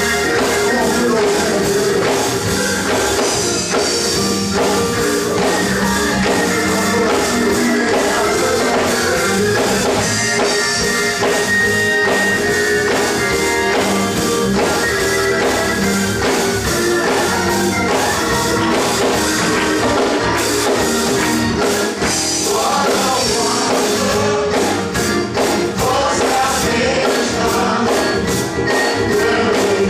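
Gospel music with a choir singing over drums, guitar and tambourine at a steady beat.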